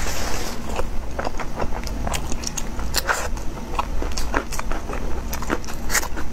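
Close-up mouth sounds of someone eating: irregular wet clicks and smacks of chewing, several a second.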